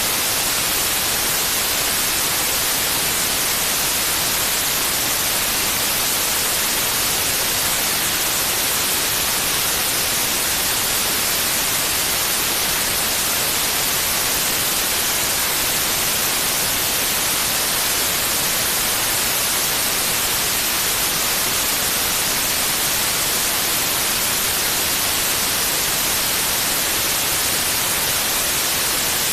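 Steady white noise played as a sleep aid for a baby: an even, unchanging hiss, brightest in the treble.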